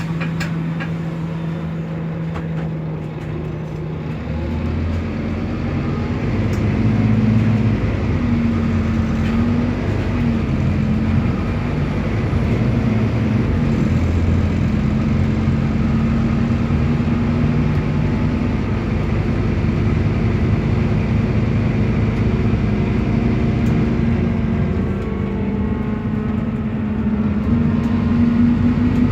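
Scania DC9 five-cylinder diesel of a Scania K280UB bus with a ZF Ecolife automatic gearbox, running on a steady note and then, about four seconds in, pulling away under load and running on; the engine note dips briefly near the end and then builds again.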